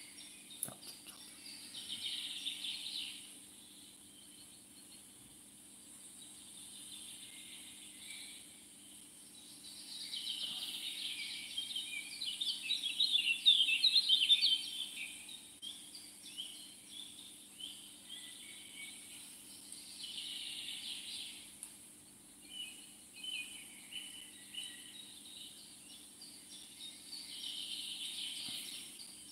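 Birds chirping in short patches of rapid high calls over a steady faint outdoor background, loudest around the middle.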